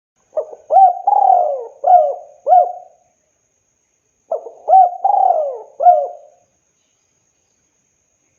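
Spotted dove (tekukur) cooing in two phrases of four or five coos each, with a pause of about a second between them.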